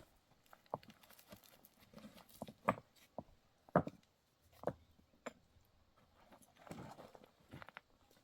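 About ten sharp knocks and clicks at irregular intervals, with a short scuffing noise about seven seconds in.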